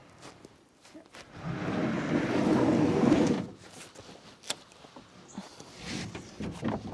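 Rough-sawn wooden boards being lifted and stacked: one board slides and scrapes across the others for about two seconds, with scattered wooden knocks and clunks around it.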